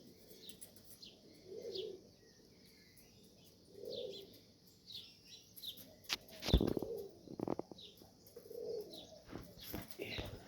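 Domestic highflyer pigeons cooing in low, repeated calls, with scattered higher chirps. A loud flurry of wing flaps comes a little past the middle.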